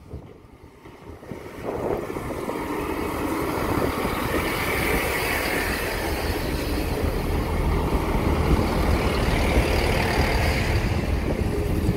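Class 158 diesel multiple unit passing slowly over a level crossing, its diesel engines running under the carriages and its wheels rolling on the rails. The steady running sound comes in about two seconds in and carries on as the carriages go by.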